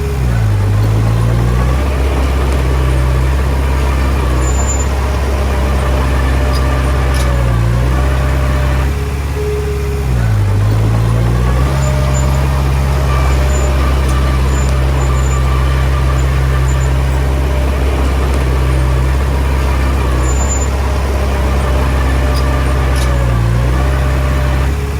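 Heavy diesel engine of earthmoving equipment running loudly and steadily, its note dipping briefly and recovering about a second in, around eight and ten seconds, and near the end.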